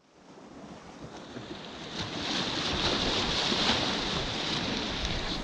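Sea waves washing over shoreline rocks, a steady rushing that fades in over the first couple of seconds and then holds.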